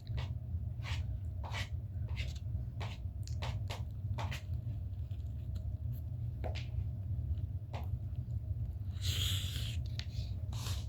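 Close-miked eating sounds: short wet mouth clicks and chewing of egg, scattered irregularly, over a steady low hum. A brief breathy hiss about nine seconds in.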